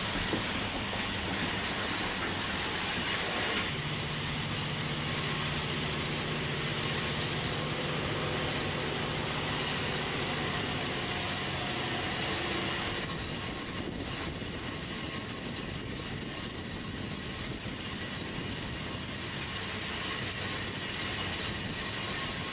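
Ringling Brothers circus train running along the rails: a steady hiss of rolling noise. A low steady hum comes in about four seconds in and fades out around twelve seconds, and the sound drops a little about thirteen seconds in.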